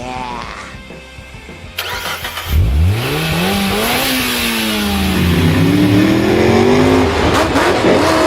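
An engine revving hard. Its pitch climbs steeply, dips, then climbs again, with a burst of noise just before it starts.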